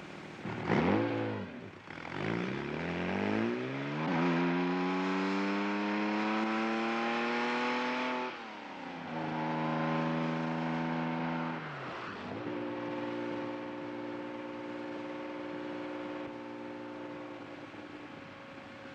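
Car engine revving once briefly, then pulling away and accelerating through the gears. Its pitch climbs steadily and drops at gear changes about eight and twelve seconds in, then it settles to a steady cruise.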